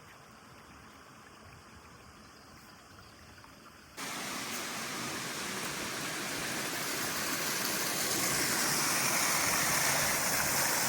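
Rushing water of a waterfall and stream, a steady hiss. It is faint at first, steps up abruptly about four seconds in, then grows gradually louder.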